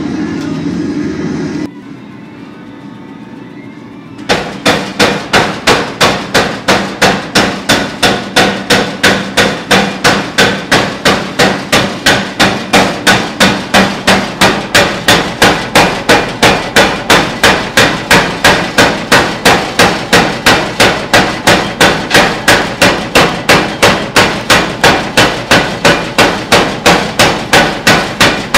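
Hammer blows forging a pattern-welded damascus billet of 1095 and 15N20 steel. The strikes come about four seconds in and keep a steady, even pace of roughly two to three blows a second, without a break.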